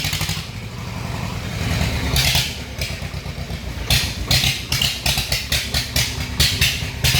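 Swaraj tractor's diesel engine running at a steady low pulse. From about four seconds in, a quick series of sharp rattles and clatters sounds over it.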